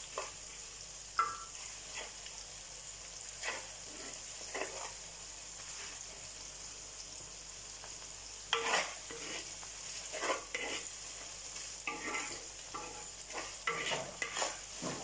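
Chopped shallots, green chillies and curry leaves sizzling in oil in a clay pot, with a steady hiss, while a wooden spatula scrapes and stirs against the pot's clay sides in short strokes every second or so, more often in the second half.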